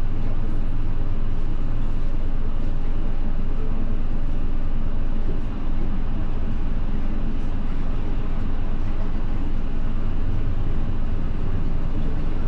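Steady engine and road rumble of a route bus heard from inside the cabin while it is under way.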